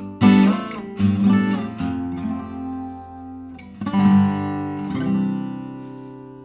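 OM-size acoustic guitar with a Pernambuco back and sides and a European spruce top being played: several chords struck and picked in the first two seconds, another about four seconds in, then a last chord left ringing and slowly fading.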